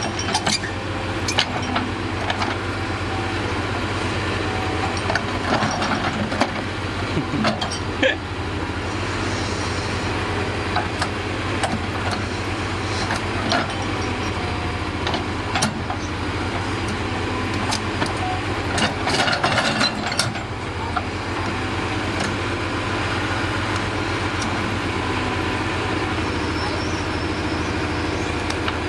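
Heavy diesel engine idling steadily, with scattered sharp knocks throughout and a brief hiss about two-thirds of the way through.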